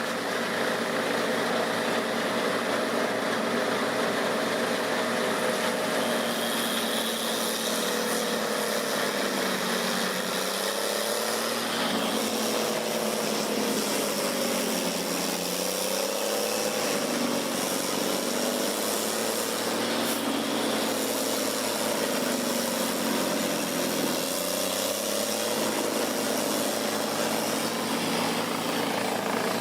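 Large forestry wood chipper running, its engine note steady at first, then dipping and recovering several times from about ten seconds in.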